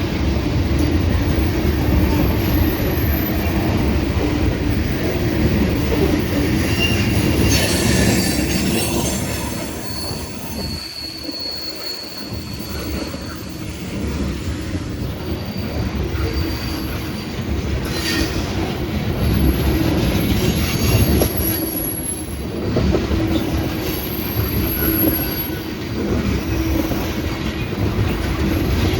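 Freight train rolling past close by: a steady rumble of railcar wheels on the rails, with high-pitched wheel squeals coming and going.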